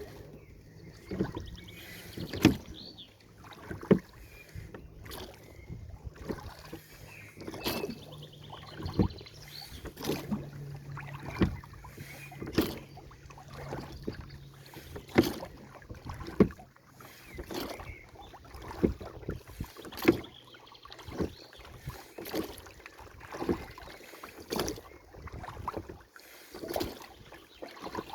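Canoe paddle strokes dipping and pulling through the water in a steady rhythm, roughly one stroke a second.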